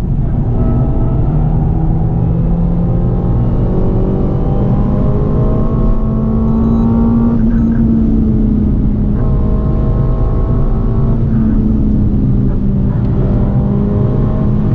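Renault Mégane 4 RS 280's turbocharged 1.8-litre four-cylinder engine heard from inside the cabin, its note rising steadily under acceleration for about seven seconds. The note then breaks off as the driver lifts, and comes back in shorter pulls, over a constant rumble of tyres and road.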